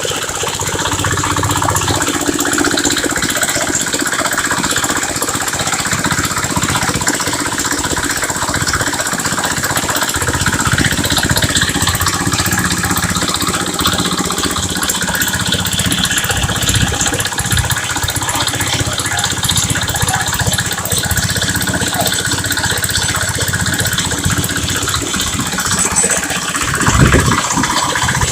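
Engine of a chain-driven borehole drilling rig running steadily, with a louder brief knock about a second before the end.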